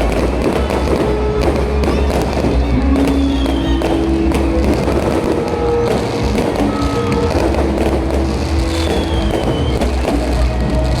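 Fireworks display: a dense, continuous run of crackling and popping bursts, with music playing loudly alongside.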